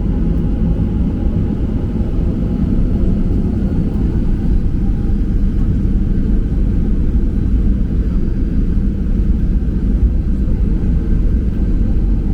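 Cabin noise of a Boeing 737-800 with CFM56-7B engines: a steady low rumble of engines and airflow, even throughout.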